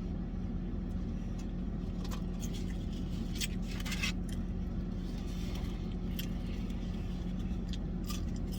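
A steady low mechanical hum, with scattered light clicks and rustles, a cluster of them about three and a half to four seconds in.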